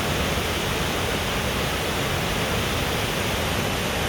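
White River Falls: the waterfall's steady rush of water.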